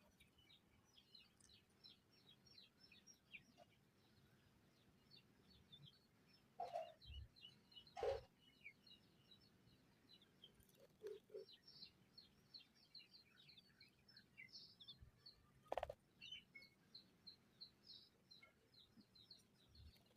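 Small birds chirping in a rapid, continuous stream of short high notes, with a few brief sharp knocks about a third of the way in, soon after, and near three quarters through.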